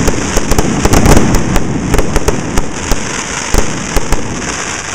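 Fireworks going off in a dense barrage: continuous rapid crackling with many sharp bangs, one heavier bang about three and a half seconds in, easing slightly toward the end.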